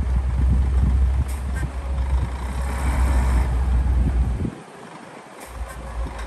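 Heavy earthmoving machinery's diesel engine running with a deep, steady rumble. The rumble drops away about four and a half seconds in and picks back up about a second later, with a few brief high clicks.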